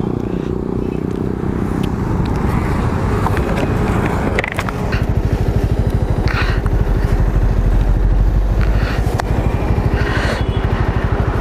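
Motorcycle engine running steadily under way, heard from the rider's own bike with wind noise on the microphone.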